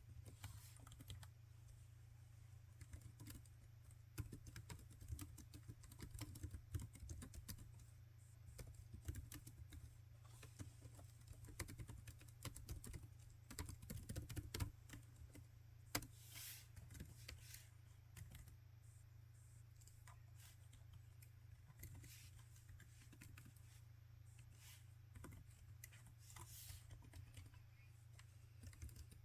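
Laptop keyboard being typed on, soft key clicks in quick runs broken by short pauses, over a steady low hum.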